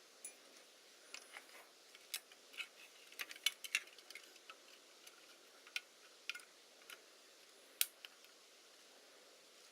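Irregular small clicks and taps of small parts and tools being handled, with a louder pair of clicks about three and a half seconds in and a single sharp click near the end.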